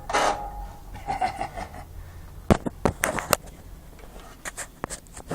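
A last guitar strum at the start, then irregular sharp clicks and knocks from about halfway in, several a second: a dog eating from its two-holed dish.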